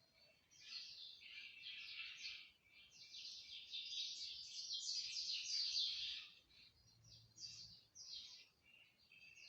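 Small birds chirping busily, many quick high chirps overlapping, thinning out to scattered chirps after about six seconds.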